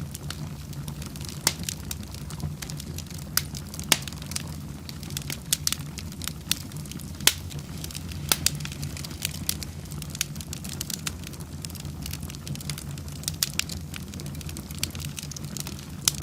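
Wood fire burning in a fireplace, crackling with irregular sharp pops, several a second at the busiest, over a steady low rumble.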